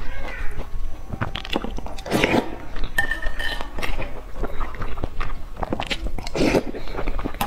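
A person chewing and eating a mouthful of eggplant rice close to the microphone, with wet mouth sounds and a few clinks of a metal spoon against the plate.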